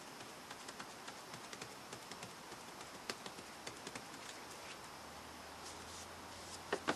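Faint, irregular light clicks and taps of small objects being handled on a work table, with two sharper clicks near the end.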